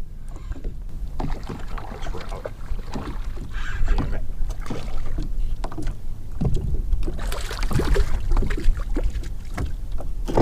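Wind buffeting the microphone with a steady low rumble, over scattered knocks and clatter of gear being handled on a fishing kayak.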